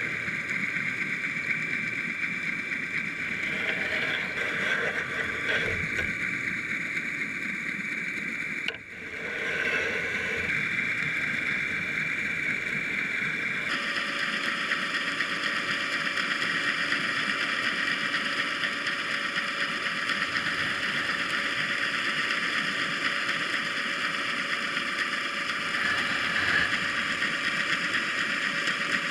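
Steady mechanical hum and hiss with several fixed whining tones. The mix shifts abruptly twice, with a brief drop about nine seconds in and a brighter, fuller hiss from about fourteen seconds on.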